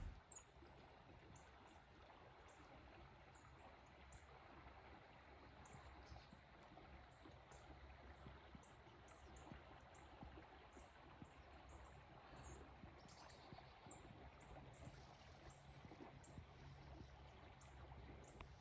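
Faint outdoor dawn ambience: a soft, steady hiss with many short, high chirps of distant birds scattered irregularly throughout.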